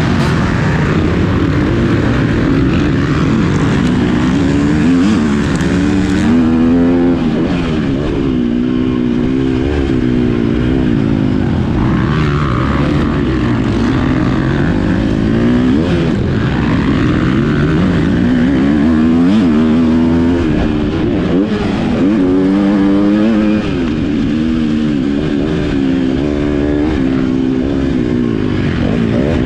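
Motocross bike engine revving hard and falling off again every few seconds as it is ridden round a dirt track, the pitch repeatedly rising and dropping with throttle and gear changes.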